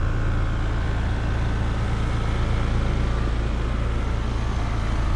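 2021 Trane XR16 5-ton straight-cool central air conditioner's outdoor unit running: the compressor and condenser fan give a steady low hum with a rushing of air and a faint steady whine above it.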